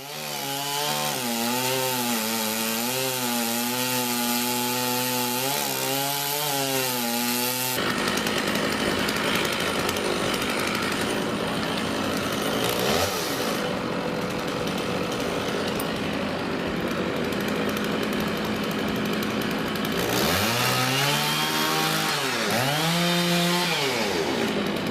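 Chainsaw engine running hard through wood, its pitch wavering under load. After an abrupt cut to steadier cutting noise, the engine revs up and drops back several times near the end.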